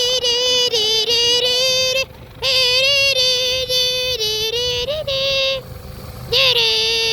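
A high-pitched voice, close to the microphone, singing long held notes on nearly one pitch without words, with two short breaks for breath.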